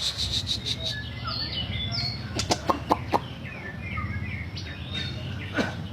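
Songbirds chirping: short scattered chirps and brief rising and falling whistles, with a quick run of sharp clicks or flutters about halfway through, over a steady low hum.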